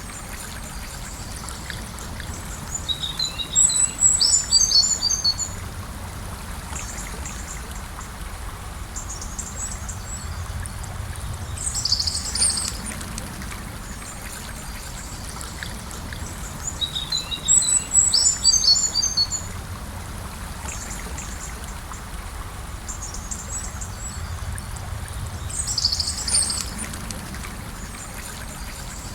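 River water flowing steadily, with a songbird singing short, high chirping phrases every several seconds, loudest about 4 and 18 seconds in.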